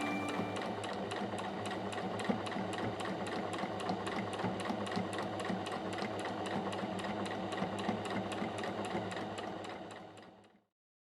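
Sewing machine stitching steadily, about five clicks a second over the motor's hum, fading out near the end.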